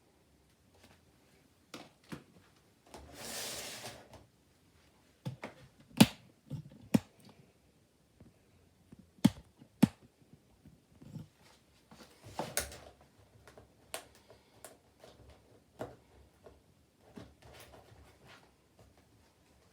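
Scattered sharp clicks and knocks from handling a Candy washing machine's door and controls before the wash starts, with a short rustling noise about three seconds in.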